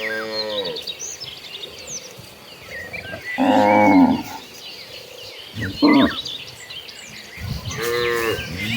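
Cattle mooing: about four calls from the herd, one fading away at the start, the loudest about three and a half seconds in, a short one around six seconds, and another beginning near the end.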